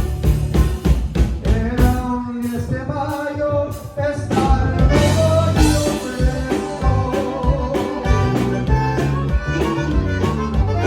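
Live band music with a steady beat, instruments and some singing; the sound thins out briefly about four seconds in before the full band comes back in.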